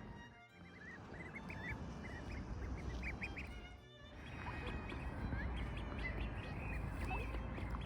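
Ducklings peeping, many short high calls in quick succession, with strong wind rumbling on the microphone.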